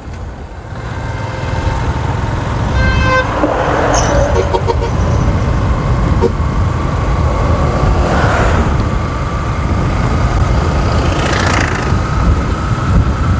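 Road noise from a moving motorcycle: a steady low rumble of engine and wind. A horn toots briefly about three seconds in, and traffic passes in swells a few times.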